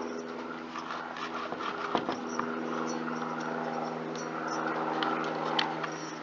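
Steady mechanical hum under scattered light clicks and scrapes of parts being handled as a chainsaw's engine is slid out of its housing, with a sharper knock about two seconds in.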